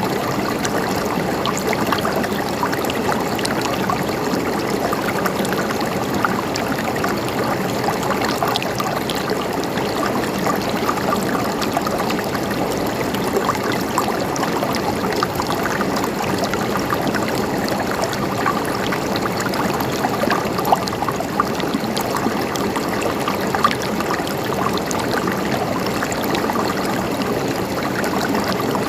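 Stream water trickling and gurgling steadily, with many small splashy plinks.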